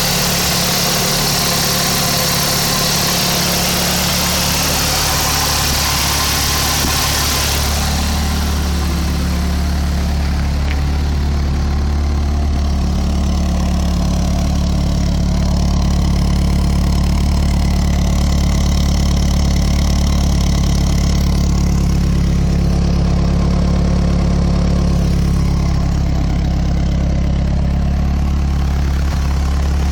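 Nissan S13's engine idling steadily. A high hiss over it dies away about a quarter of the way through.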